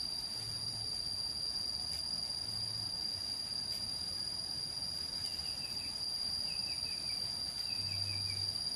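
Forest insects trilling: one steady, unbroken high-pitched tone. About halfway through and twice more near the end comes a short run of quick, falling chirps.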